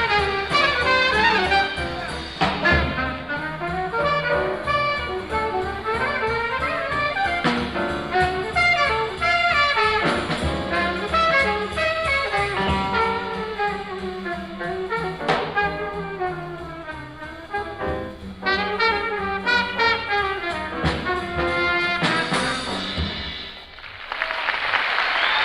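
Live bebop small group, with trumpet and alto saxophone playing fast lines over bass and drums. The tune ends about 23 seconds in and the audience breaks into applause.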